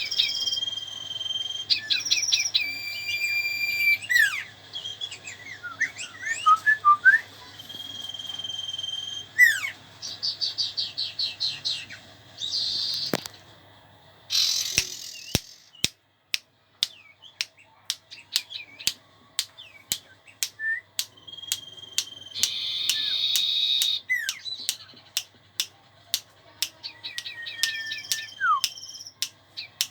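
Songbird (the bird that Malay and Indonesian keepers call 'cipau') singing loud, clear whistles, trills and chattering calls, then a long run of sharp, quick clicks from about halfway, broken by more whistled phrases.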